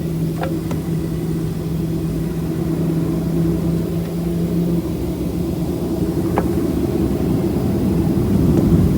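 Boeing 737 jet engines running in a steady low rumble that slowly grows louder as they spool up toward the takeoff roll. A steady hum drops out about halfway, and there are two faint clicks.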